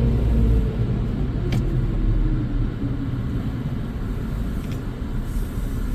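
Low steady vehicle rumble heard from inside a car's cabin, with a faint hum that fades out under a second in and a single click about a second and a half in.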